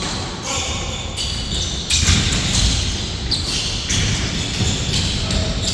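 Basketball bouncing on a court floor during play, a thud roughly every second, mixed with players' shuffling steps and short high squeaks.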